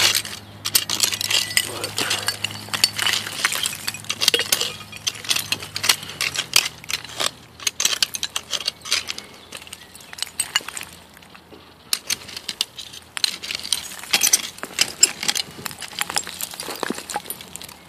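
Digging through a dump of old glass in the dirt: many irregular clinks, scrapes and knocks of broken glass and bottles being moved against each other, with a short lull in the middle.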